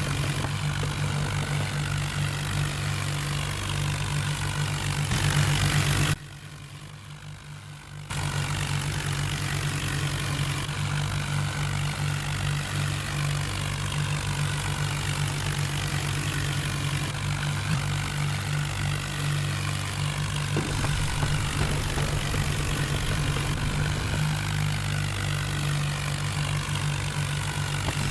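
Farm tractor diesel engines running steadily, a heavy low drone, as in a tractor tug-of-war. About six seconds in the sound drops sharply to much quieter for about two seconds, then the drone returns.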